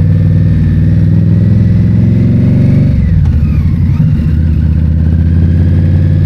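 2022 Indian Scout Bobber's V-twin engine running under way, its pitch climbing gently for about three seconds, then dropping off sharply as the throttle is rolled back, before settling into a steady run.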